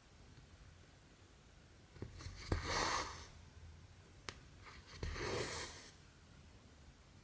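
Cotton embroidery thread pulled through cross-stitch fabric, two noisy pulls just under a second each about two and a half seconds apart, with light ticks of the needle pricking the cloth between them.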